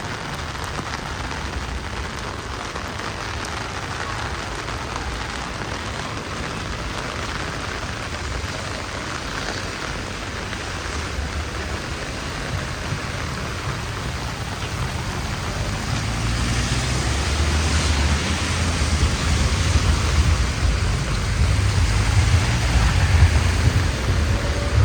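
Heavy rain falling steadily. From about two-thirds of the way in, a low rumble grows louder underneath the rain.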